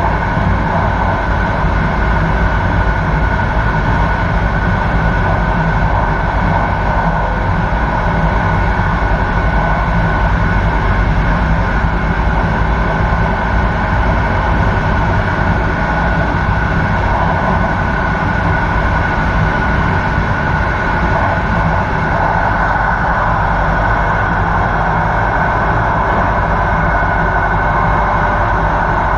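Electric passenger train running steadily at speed, heard from its rear end: a continuous rolling noise of wheels on rails with a low rumble and a steady high tone running through it.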